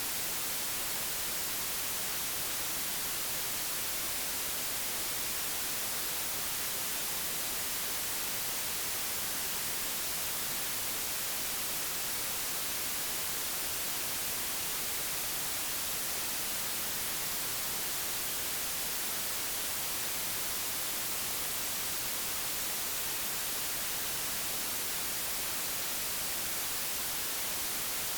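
Digitally generated white noise: a steady, even hiss with no change throughout.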